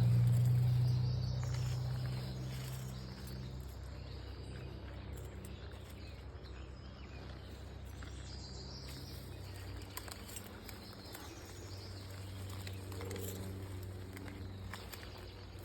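Engine drone of a vehicle on a nearby highway, fading away over the first few seconds and leaving a steady distant traffic hum. Faint bird and insect calls sound over it.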